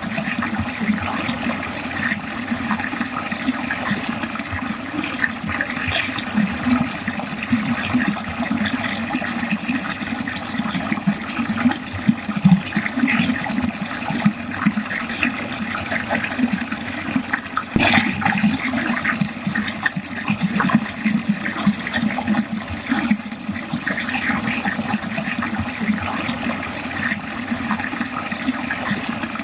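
Water running steadily down a drain, with irregular gurgling, and one sharp click about two-thirds of the way through.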